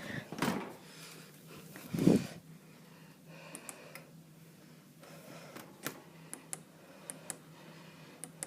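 A Miele dishwasher being shut and set: a short thud just after the start and a louder one about two seconds in, then a string of light sharp clicks from its control panel as the programme is selected.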